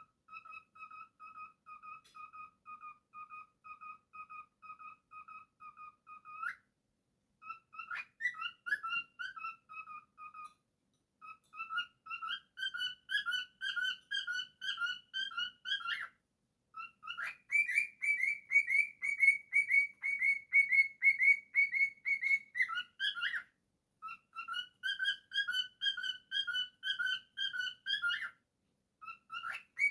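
Cockatiel whistling a song: rapid runs of short, clear repeated notes, about three a second, in phrases of a few seconds broken by short pauses. The pitch steps up between phrases, and the highest phrase, about halfway through, is the loudest.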